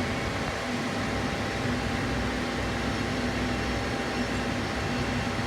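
Steady background hum and hiss, unchanging throughout, with a faint even tone in it.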